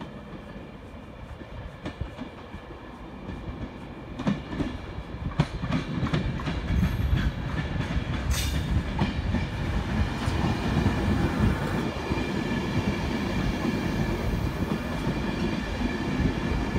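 Express passenger train coming up to and running past the platform. The rumble of its wheels and traction swells from about four seconds in. It settles into a steady loud rumble of coaches going by, with wheels clattering over the rail joints.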